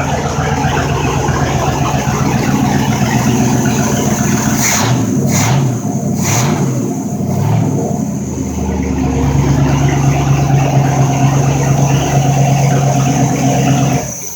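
Mercruiser 5.7-litre V8 marine engine running, revved in three quick throttle blips that rise and fall, then held at a steady higher speed. The sound cuts off abruptly at the very end.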